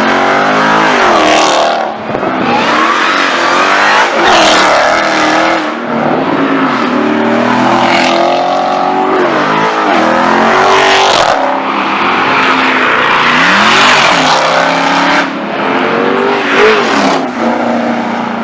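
Performance cars accelerating hard one after another, engines revving up through the gears with repeated rising pitch and shift breaks, several loud surges in a row.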